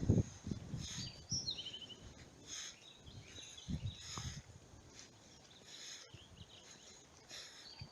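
Outdoor wildlife ambience: birds calling, with a quick falling call about a second and a half in, over short high chirps that repeat every half second to a second, and a few faint low thumps.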